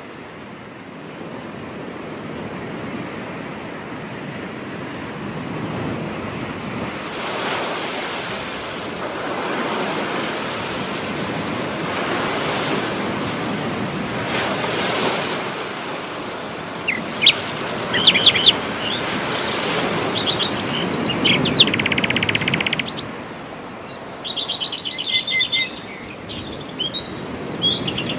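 Ocean surf breaking on a beach, the wash swelling and easing in slow waves. Over the second half, small birds chirp in quick bursts, with one buzzy trill.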